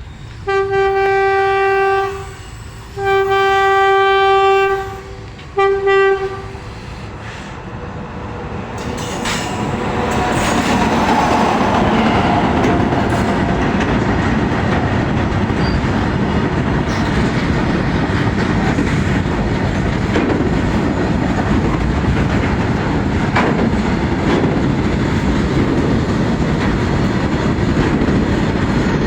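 Freight train's horn sounding three blasts, two long and one short. Then the train passes: a steady noise of wagons rolling on the rails that builds up and holds, with wheel clicks over the track.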